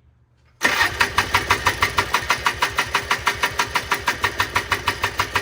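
The 1995 Polaris Trail Boss 250's two-stroke single-cylinder engine is turned over by its starter and does not fire. It is a steady, even chuff of about six compression pulses a second, starting suddenly about half a second in. The owner suspects the engine is flooded.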